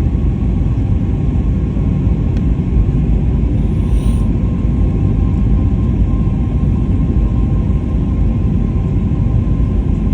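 Airbus A320 jet engines on landing approach: a loud, steady low rumble with a faint steady whine above it.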